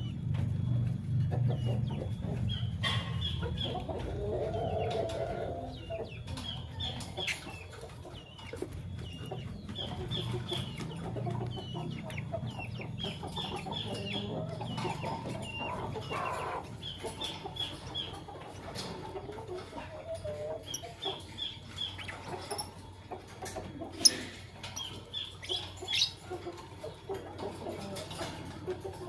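Lovebirds chirping: runs of short, high, quick chirps repeated over and over, with some lower chatter between them. Two sharp clicks stand out about three-quarters of the way through.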